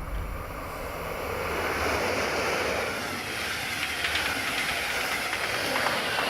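Passing train: a steady rushing rumble of wheels on rails, with faint rhythmic clicks of the wheels over the track in the second half.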